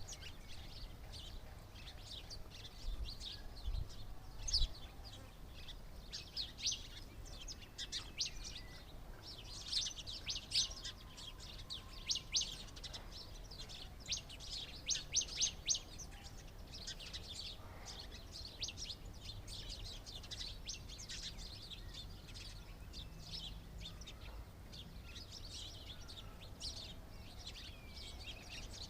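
Small birds chirping, many short high chirps overlapping in a busy chatter that is thickest around the middle, over a faint low rumble.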